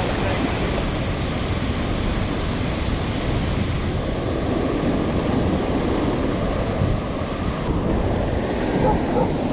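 Loud, steady rush of heavy water release pouring out below a dam, with wind on the microphone.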